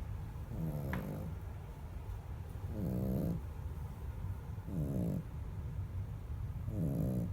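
Sleeping dog snoring rhythmically, about one snore every two seconds; each snore is a short pitched breath that drops in pitch. A steady low rumble runs underneath.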